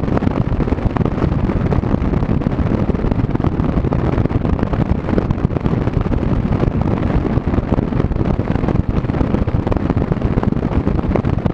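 Heavy wind buffeting the microphone, loud and steady, with the rush of a boat running at speed on the water underneath.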